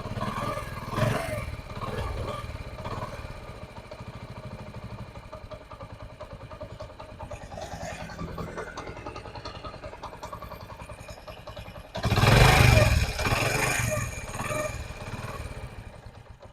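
Honda CD 70 motorcycle's single-cylinder four-stroke engine running with a steady beat after a tappet (valve clearance) adjustment meant to cure its tappet noise. There is a much louder burst about twelve seconds in, and the engine fades down near the end.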